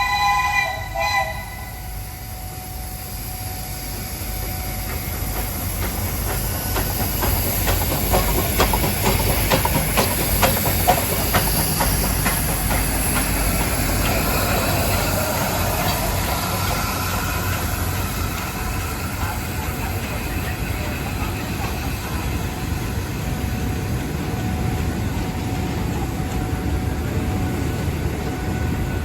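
A train hauled by Pacific-class steam locomotives 824 and 850: a chord-like whistle cuts off about a second in, then the train rumbles past, its wheels clacking rapidly over the rail joints, thickest through the middle.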